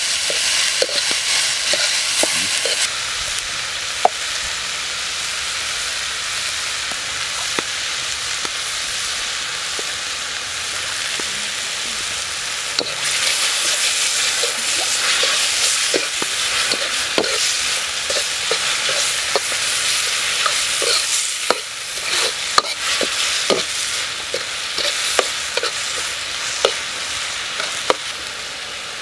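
Diced peppers and onion sizzling in a wok, stirred with a metal ladle that scrapes and knocks against the pan at irregular moments.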